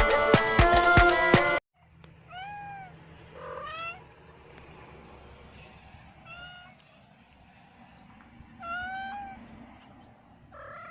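A cat meowing five times, short calls that rise and fall in pitch, a few seconds apart. A stretch of music cuts off about a second and a half in, just before the first meow.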